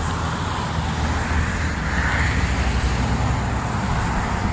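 Steady low rumbling noise with a fainter high hiss above it.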